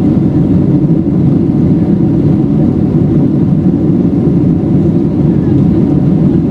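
Boeing 737 cabin noise during takeoff: the steady, loud, deep roar of the jet engines and rushing air heard from inside the passenger cabin.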